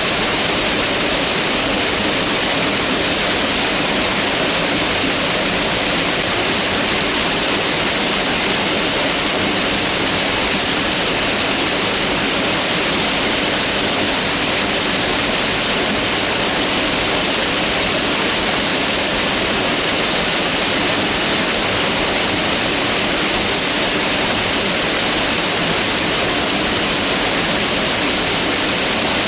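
Mountain river rushing over rocks: a steady, loud hiss of white water that doesn't change.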